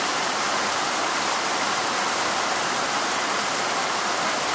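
Steady rain falling, with water pouring off mobile-home roofs, an even, unbroken rush of water.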